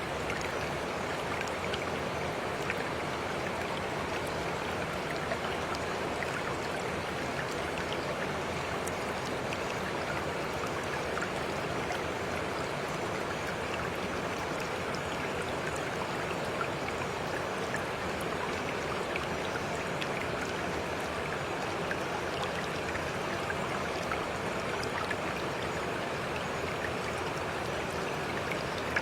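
Flowing water, like a stream, making a steady, even rushing sound that does not change throughout.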